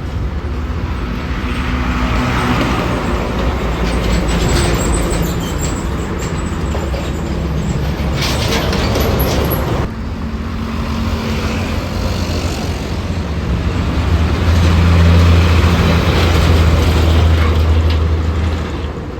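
Road traffic with large vehicles' engines running close by. The sound breaks off abruptly about ten seconds in, and a loud, low engine drone from a heavy vehicle builds in the last few seconds.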